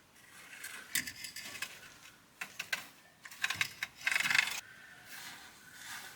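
Hand tools and small metal parts clinking and clicking as they are handled, with a louder rattling burst about four seconds in.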